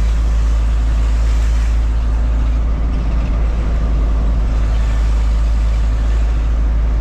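A truck on the move, its engine and road noise making a steady low rumble.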